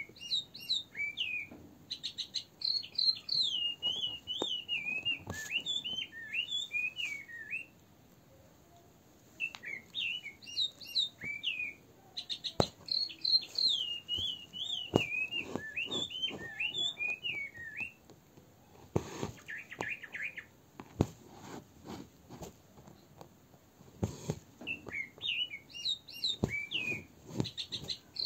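A bird singing in repeated phrases of quick chirps and swooping whistled notes, each phrase a few seconds long with pauses between, over scattered light clicks and taps.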